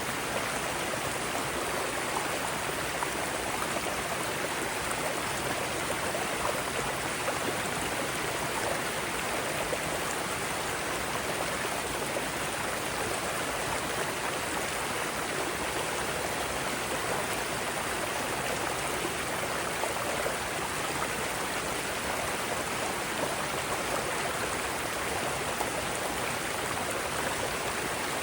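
Mountain stream rushing over rocks in small rapids, a steady, even rush of water with no breaks.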